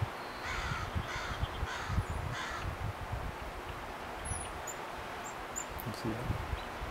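Four harsh, hoarse bird calls about half a second apart, then a few faint, high, short chips, over a low rumble.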